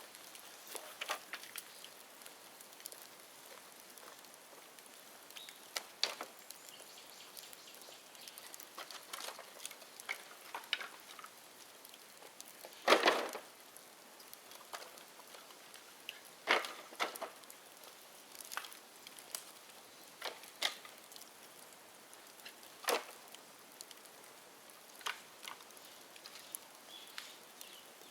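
Bonfire of dry dead bamboo crackling, with scattered sharp pops at irregular intervals; the loudest crack comes about halfway through.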